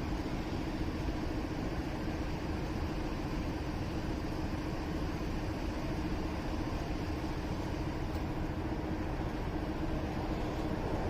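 Motorcycle engine running steadily, heard from on the bike, with a constant low hum and an even rumble of vehicle noise.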